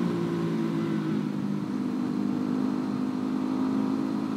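Single-cylinder four-stroke supermoto engine running at a steady cruise on a bumpy dirt road, with wind rushing over the microphone.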